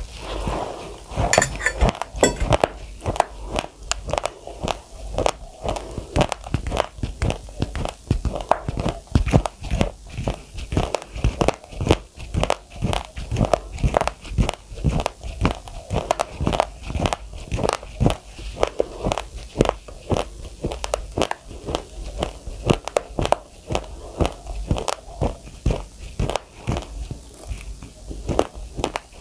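A person chewing mouthfuls of raw, uncooked rice close to the microphone. The hard grains crunch in a fast, continuous run of sharp clicks.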